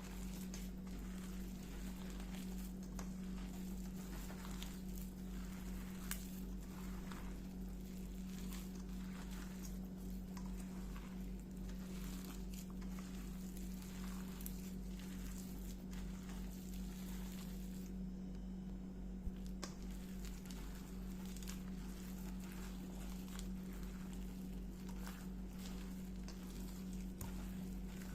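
Soft, scattered taps, clicks and rustles of hands working food and utensils, over a steady low hum.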